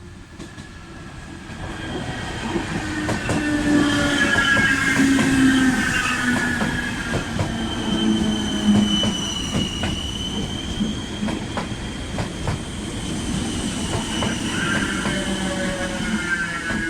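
A train passing close by, building up over the first few seconds and staying loud. High squealing tones from the wheels waver through it, with sharp clicks from the wheels running over rail joints.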